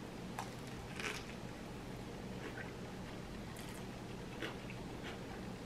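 Close-miked mouth sounds of a person biting into and chewing a veggie cheeseburger on thick-cut multigrain toast: a few soft crunches and wet clicks, the clearest about a second in, over a faint steady low hum.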